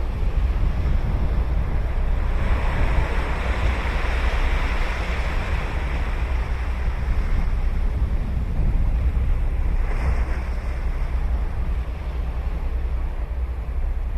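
Ocean surf breaking and washing up the beach, with a swell of wave hiss a couple of seconds in and a smaller one about ten seconds in. A steady low wind rumble sits on the microphone throughout.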